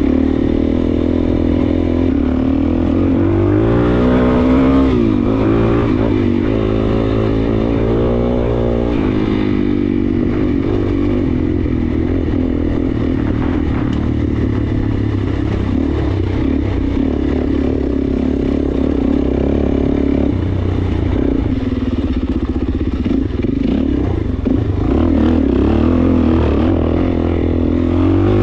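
Suzuki DR-Z400S single-cylinder four-stroke dirt bike engine running under way on a trail ride. Its pitch rises and falls with the throttle several times in the first few seconds, then it runs more steadily.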